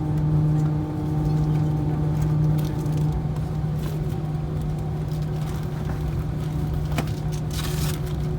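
Steady cabin drone of an Airbus A321-231 taxiing after landing, with a strong low hum and several higher steady tones, some of which drop out about three seconds in. A sharp click comes about seven seconds in and a short hiss just before the end.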